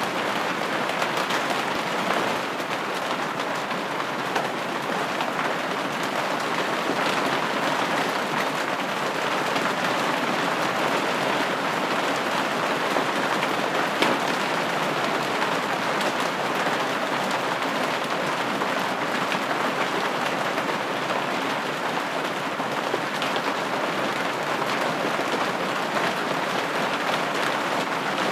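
Steady rain pattering on a window pane, an even hiss of drops with scattered faint individual taps and no change in intensity.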